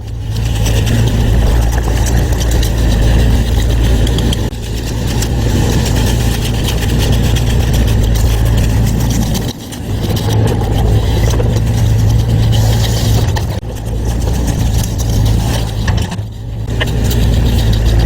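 A motor-driven concrete compaction tool running steadily with a low hum. It drops off briefly twice, about halfway through and again near the end.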